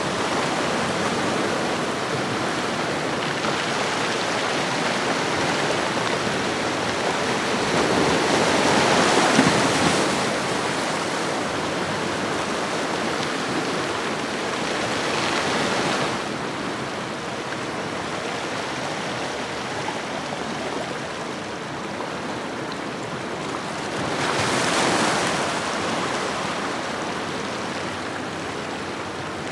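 Ocean surf washing on a shoreline: a steady rush of water that swells louder as waves break, once about a third of the way in and again near the end.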